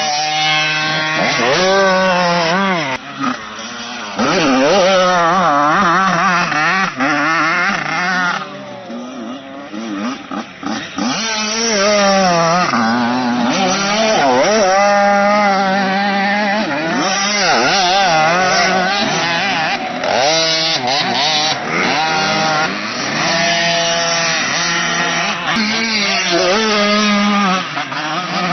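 Motocross motorcycle engines revving hard. Their pitch keeps rising and dropping with throttle and gear changes as several bikes ride past, overlapping at times.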